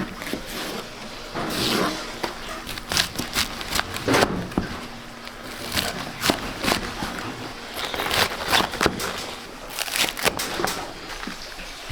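Irregular knocks, scrapes and crinkling from hands at work preparing food, with many short sharp sounds spaced unevenly throughout.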